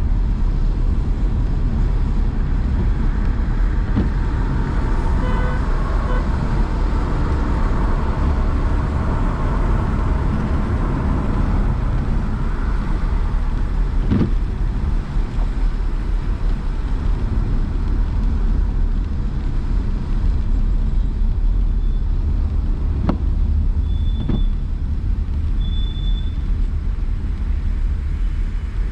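A car driving in city traffic, with a steady low rumble of engine and road noise. A few brief knocks come through, and a couple of short high beeps sound near the end.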